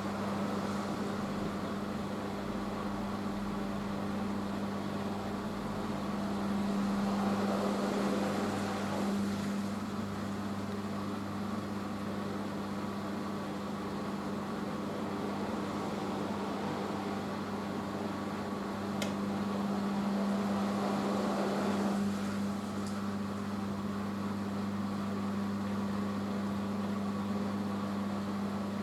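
Hoover H-Wash 500 washing machine in its rinse spin after the first rinse: the motor and drum run with a steady hum, swelling louder twice, about a third of the way in and again about three quarters of the way in.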